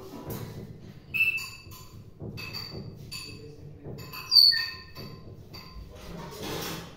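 A pet parrot giving a run of short, high-pitched calls and chirps, with two louder calls about a second in and about four and a half seconds in.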